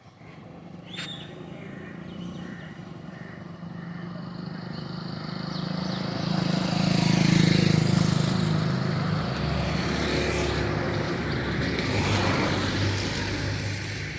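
Motor vehicles passing close by: an engine grows louder to a peak about seven seconds in, fades slightly, and a second vehicle swells again near the end.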